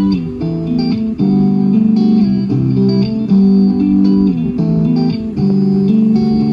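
Guitar music with plucked, sustained notes, played back through small Logitech Z121 computer speakers.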